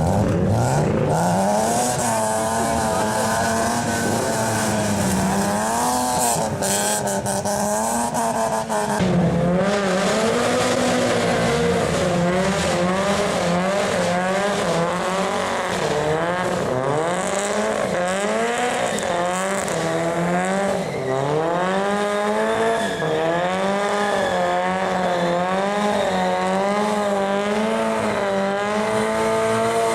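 A car engine revving hard, its pitch swinging up and down over and over about once a second as the throttle is worked, with the tyres squealing as the car does donuts.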